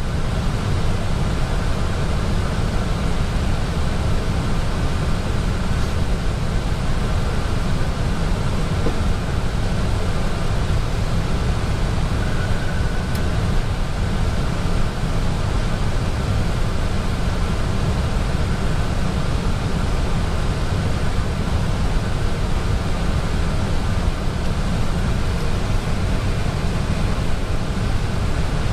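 Airbus A320 flight-deck noise in descent: a steady, even rush of airflow and air-conditioning with a deep low rumble, unchanging throughout.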